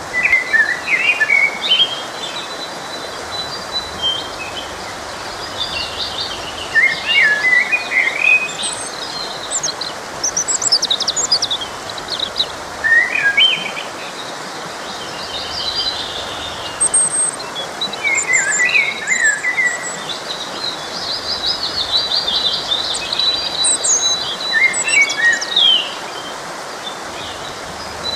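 Songbirds singing, a stream of short chirps, trills and whistles, over the steady rush of a forest stream.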